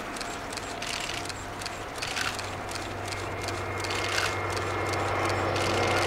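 Train approaching, a steady low drone growing gradually louder, with scattered sharp clicks.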